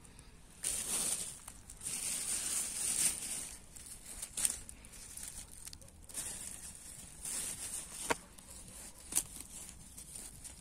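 Rustling and crinkling handling noise in irregular bursts, with a few sharp clicks or snaps in the second half.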